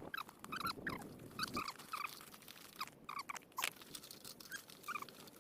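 Handling noise as a camp stove is taken out of an army duffel bag: rustling and clicks with a run of short, high squeaks.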